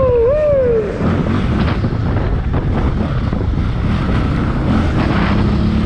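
Wind buffeting the microphone over the steady running of a motorcycle engine while riding. A short pitched sound rises and falls twice right at the start.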